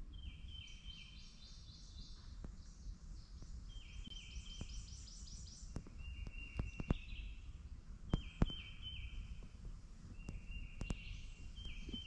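Songbirds singing: at least two birds repeat short phrases of quick high notes every couple of seconds. A few sharp clicks come through about seven and eight seconds in.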